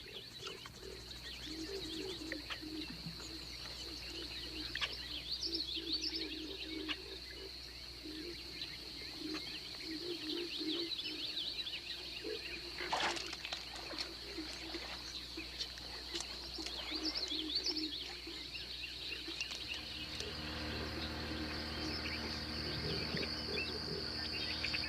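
Swamp wildlife chorus: a steady high insect drone, with birds chirping and calling over it and low repeated calls underneath. About twenty seconds in, a low steady hum joins.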